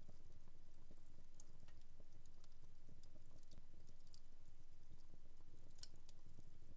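Wood fire crackling in a home fireplace: irregular sharp pops and snaps over a low, steady rumble of the flames, with a louder pop about a second and a half in and another near six seconds.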